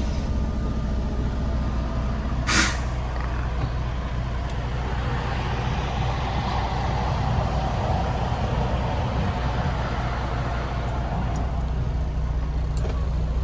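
Semi truck's diesel engine droning steadily with road noise inside the cab, with one short, sharp hiss of air about two and a half seconds in.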